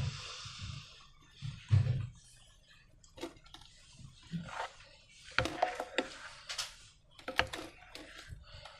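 Slime being handled and squished by hand, giving sticky clicks and crackles in short bursts, with a couple of soft thumps early on.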